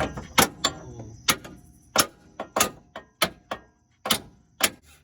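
A hammer striking a car's metal suspension parts, about nine sharp blows at uneven spacing, roughly two a second.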